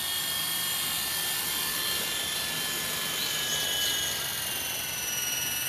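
Electric motor and main rotor of a WLtoys Sky Dancer single-blade radio-controlled helicopter, a steady high whine as it is brought in to land. The pitch dips slightly a few seconds in as it is throttled back.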